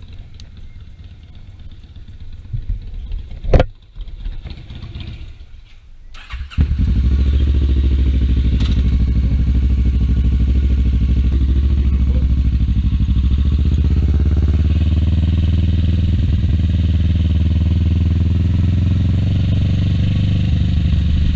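A sharp knock about three and a half seconds in. Then, about six and a half seconds in, a Kawasaki Ninja 650R's parallel-twin engine starts and keeps running steadily and loudly.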